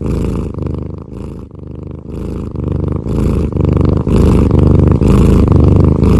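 Cat purring loudly and close, in repeated breath-long cycles with short breathy pauses between them.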